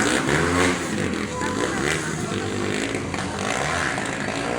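Motocross dirt bike engine running and revving, its pitch rising and falling, with a voice over it.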